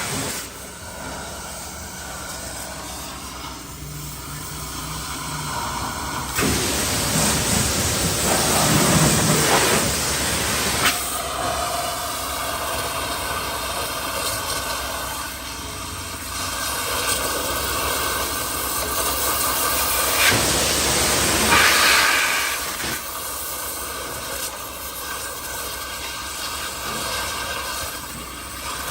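Pressure washer spraying water, a steady hiss that grows louder about six seconds in and again around twenty seconds in, over a steady machine drone.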